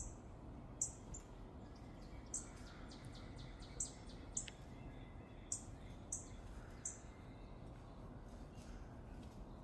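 Small birds chirping: short, very high, falling chips repeated every second or so, fading out in the last couple of seconds, over a steady low outdoor background.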